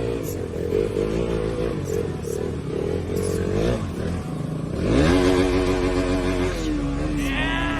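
Motorcycle engine revving unevenly at low speed, then rising sharply in pitch about five seconds in and holding high before easing off.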